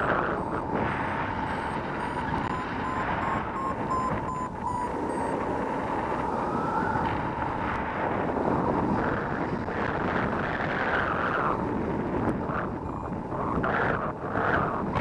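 Strong wind rushing over the microphone in flight under a paraglider, with a thin steady electronic tone and a run of short beeps about two to five seconds in.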